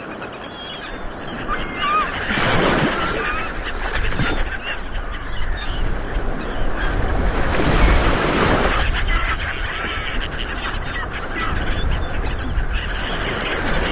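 Ocean waves rolling in and breaking, swelling about two and a half seconds in and again near eight seconds. Short bird calls are heard over the surf.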